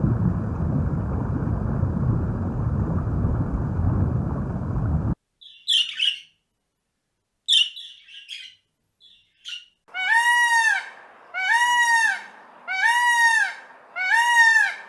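A steady low noise that cuts off abruptly about five seconds in, then a few short high bird chirps. After that comes a bird calling four times in a row, about one call every second and a quarter, each call rising and falling in pitch.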